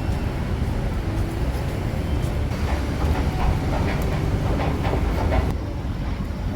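Steady low rumble of city vehicles, with a rushing noise over it that drops away abruptly about five and a half seconds in.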